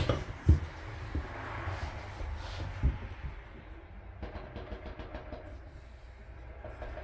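A few short knocks and clicks of parts being handled, the sharpest about half a second in and smaller ones later, over a steady low hum.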